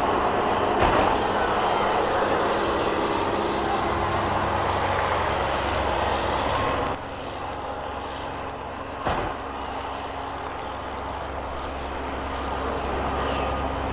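Vehicle engines running, a steady mechanical hum and rumble that gets quieter about seven seconds in, with a sharp knock near the start and another about nine seconds in.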